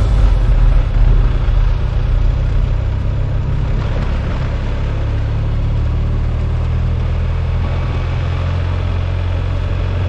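Motorcycle engine running steadily, heard under a haze of wind and road noise.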